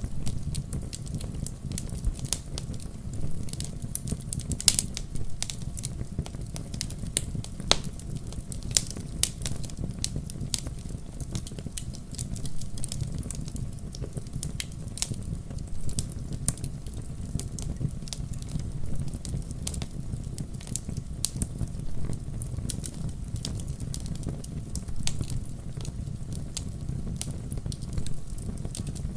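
Wood fire crackling, with frequent sharp, irregular pops and snaps over a low, steady rumble of flames.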